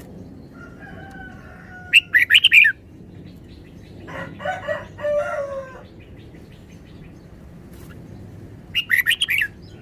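Red-whiskered bulbul singing short, quick chattering phrases, once about two seconds in and again near the end, with a rooster crowing between them.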